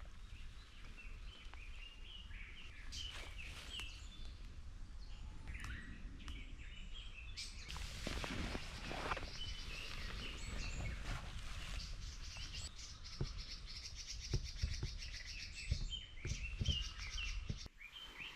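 Small birds chirping over a steady low outdoor rumble, with a fast high trill through the middle. Scattered sharp knocks and rustles come in, most thickly near the end.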